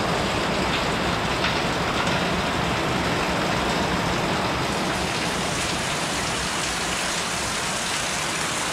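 Heavy tropical downpour falling steadily on hard surfaces: a dense, even hiss of rain.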